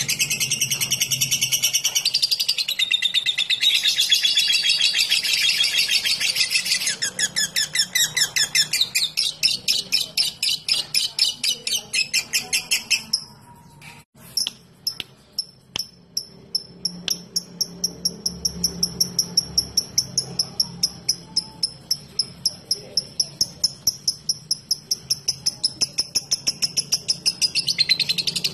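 Lovebird singing its long rapid chattering trill (the 'ngekek'), a fast run of high repeated notes. It breaks off about halfway with a few sharp clicks, then resumes as a long, even series of quick high notes.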